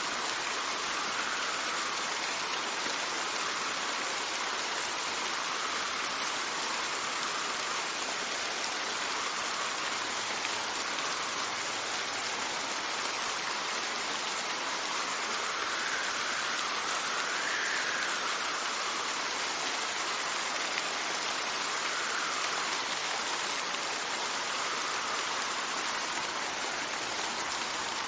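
Steady rain with wind. Soft gusts swell and fade every few seconds over the even hiss of the rain.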